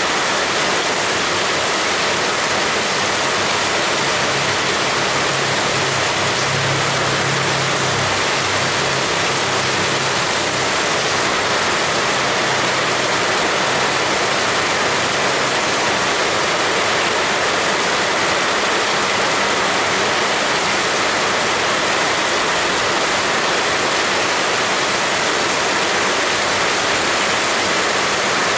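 Heavy rain pouring steadily, a dense unbroken hiss of falling water. A faint low hum sits underneath for several seconds in the first half.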